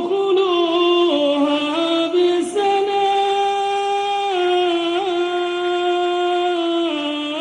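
A man's solo voice in melodic Quran recitation (tajwid), drawing out a long vowel that steps between several held pitches with brief ornamental turns.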